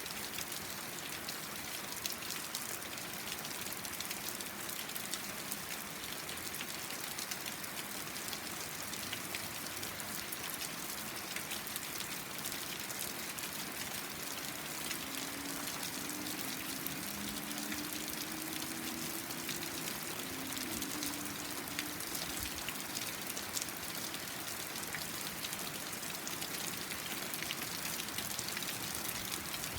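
Steady rain falling, an even hiss made of many fine drop ticks. About halfway through, a faint low hum rises slightly for several seconds.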